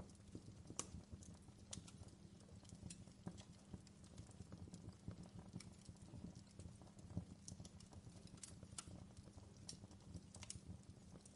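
Faint fireplace fire crackling: a steady low rumble of flames with irregular sharp pops and snaps.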